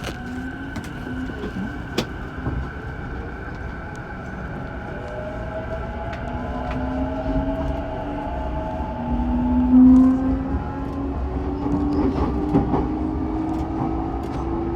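Saikyo Line electric train running, heard from inside: the traction motors' whine rising slowly in pitch as it accelerates, over the rumble of wheels on rail, with a couple of sharp clicks in the first two seconds.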